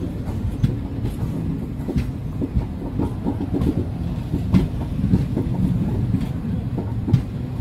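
Moving passenger train heard from an open coach doorway: a steady low rumble of the coaches running, with irregular clicks of the wheels over the rail joints.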